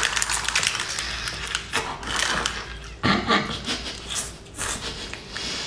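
Close-up wet chewing and slurping as a big mouthful of sauced enoki mushrooms is stuffed in and worked down. It comes as a dense run of irregular, clicky mouth sounds, loudest about three seconds in.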